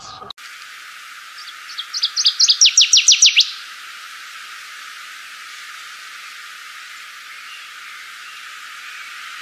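A songbird sings one phrase of about ten sharp, quick notes, each sweeping down in pitch. The notes speed up and get louder over about two seconds, then stop, leaving a steady hiss.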